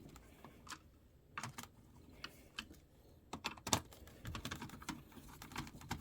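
Irregular light clicks and taps of small plastic and metal laptop parts being handled and fitted by hand, the sharpest click a little over halfway through.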